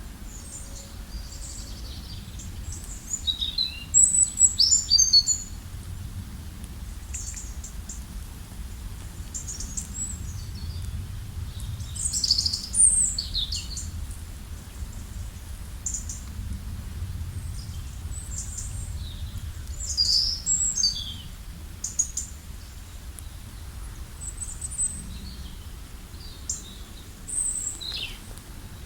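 Several wild songbirds chirping and trilling in short bursts of high notes, over a steady low background noise.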